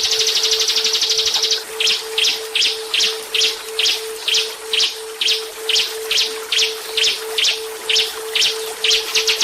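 Recorded songbird calls played as a training track: a fast, high trill for about a second and a half, then a run of sharp separate chips a little over two a second, with the fast trill coming back near the end. Under the calls runs a steady low hum that pulses several times a second, a 'brainwave' tone laid over the recording.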